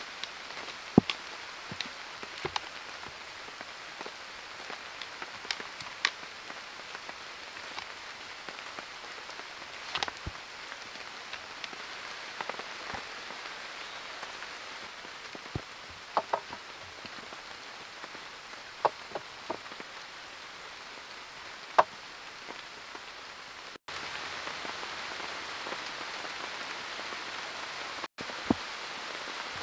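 Steady rain falling, with scattered sharp ticks of single heavier drops striking close by. The rain's hiss drops out briefly twice near the end.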